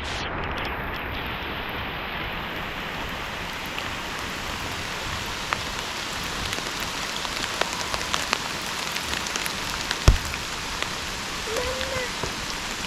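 Steady rain falling, with nearer drops ticking irregularly and one sharper tap about ten seconds in.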